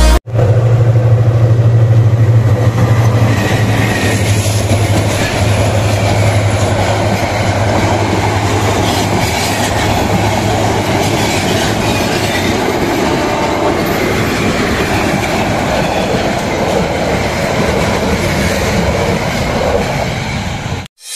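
A train passing close by on the line: a strong low drone for the first few seconds, then a steady rumble of the train going past.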